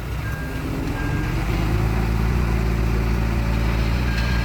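Heavy diesel engine of an earthmoving vehicle running under load, getting louder and a little higher about a second and a half in. A reversing alarm beeps twice at the start and once more near the end.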